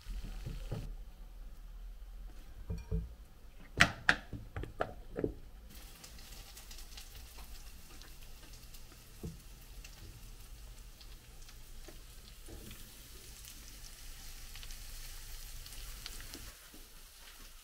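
Kitchen cooking sounds: oil sizzling under battered zucchini rounds in a stainless frying pan, and a spatula mixing shredded vegetables in batter in a glass bowl. A quick run of sharp utensil clinks about four seconds in is the loudest part.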